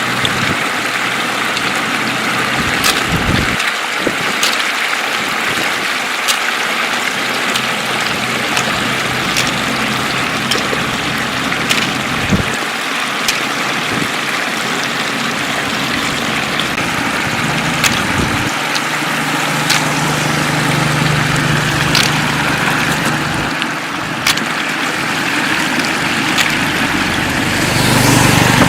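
Floodwater running steadily, with scattered sharp clicks and a low hum for a few seconds about two thirds of the way in.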